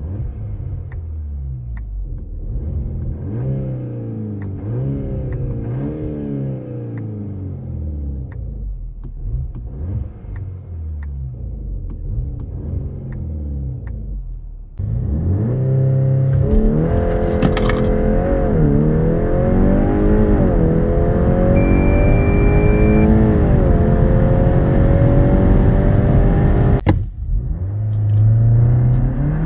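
VW Golf R Variant's turbocharged 2.0-litre four-cylinder and stock exhaust revving in repeated short blips, rising and falling. About halfway in it gets much louder, with long rising sweeps under hard acceleration and road noise. A brief drop near the end is a gear change.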